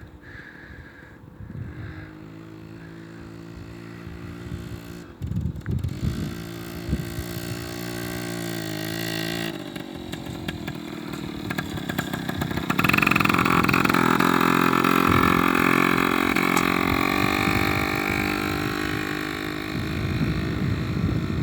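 Motorcycle engine running and revving, its pitch rising and falling several times, growing much louder a little past halfway and staying loud.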